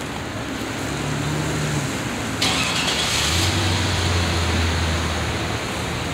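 Car running along a wet, snowy street: a low engine hum over steady tyre hiss, with a sudden brief burst of hiss about two and a half seconds in.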